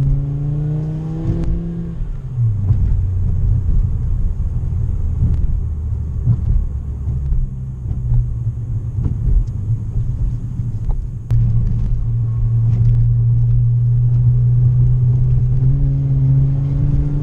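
A car engine running with a steady low drone. Its pitch climbs in the first second or so, drops about two seconds in, jumps up suddenly about eleven seconds in, and climbs again near the end, as when accelerating.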